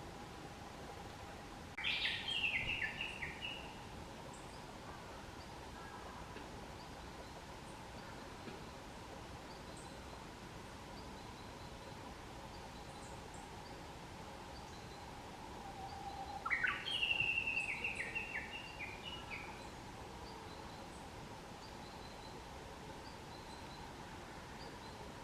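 Grey-headed woodpecker calling twice, each time a short run of notes that step down in pitch, over a quiet outdoor background.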